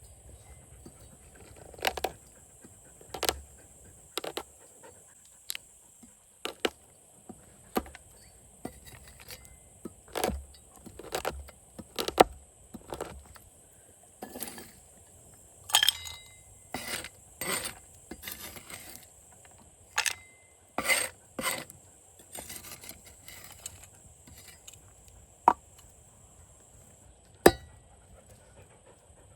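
Metal cooking utensils clinking and scraping against cookware at irregular intervals, some two dozen sharp knocks and short scrapes, over a steady high hiss.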